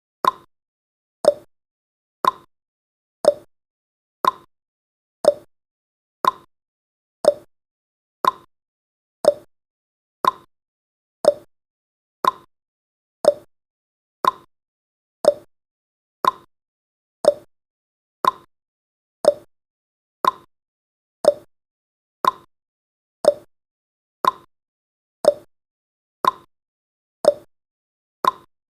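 Clock-style ticking sound effect of a countdown timer: one short tick every second, alternating between a higher and a lower tick like a tick-tock.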